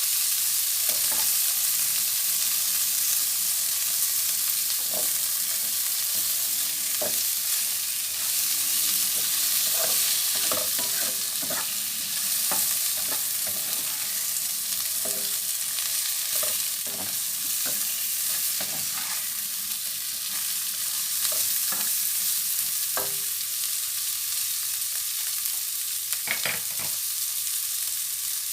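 Shrimp and garlic frying in butter in a pan, a steady sizzle, with a utensil clicking and scraping against the pan now and then as the food is stirred.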